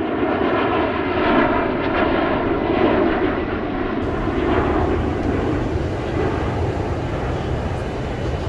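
Steady rushing noise of a Boeing 747 airliner in flight, changing in character about four seconds in.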